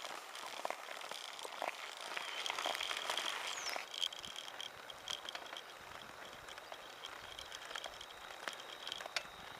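Recumbent trike being ridden along a country road: a steady rushing noise with scattered light clicks and rattles from the bike. From about two seconds in, a high, steady, faintly pulsing tone sounds over it.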